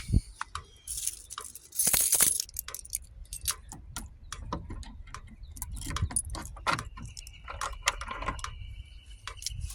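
A bunch of keys jangling and clicking as they are handled, among scuffs and a rustle; a thin steady high tone sounds through the last few seconds.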